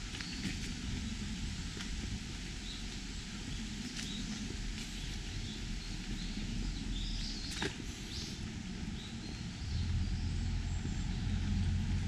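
Small birds chirping now and then, short high calls, over a steady low rumble with a few sharp clicks; the rumble grows louder about ten seconds in.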